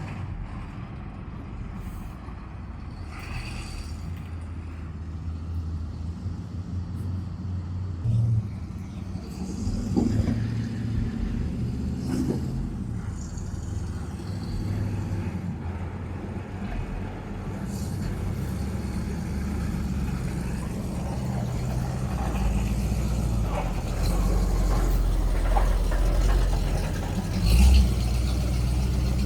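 Monster truck engine running with a steady low drone that grows louder about three-quarters of the way through, with a few knocks along the way.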